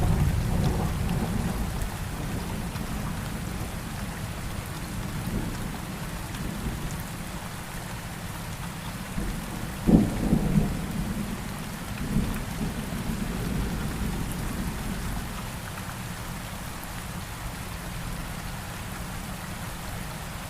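Steady rain falling, with thunder: a low rumble fading over the first couple of seconds, then a sharper clap about halfway through that rolls on briefly, and a smaller rumble soon after.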